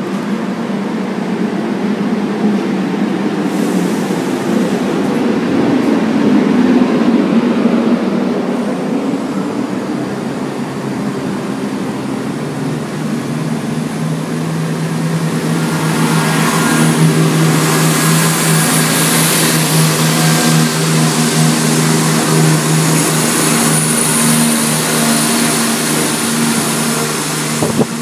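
An InterCity 225 train's coaches rolling slowly past with wheel and running rumble. From about halfway a steady diesel engine note takes over, growing louder with a hiss, as a Class 170 Turbostar diesel multiple unit moves through on the far track.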